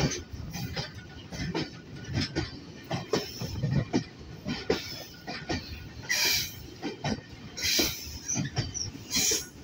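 Freight train running along a curving track, heard from on board: wheels clattering and knocking over the rails, with three short, high wheel squeals in the second half.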